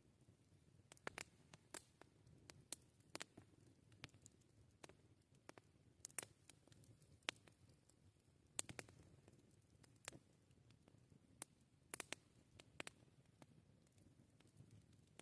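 Wood fire crackling: irregular sharp pops and snaps, sometimes several in quick succession, over a faint low rumble of the burning fire.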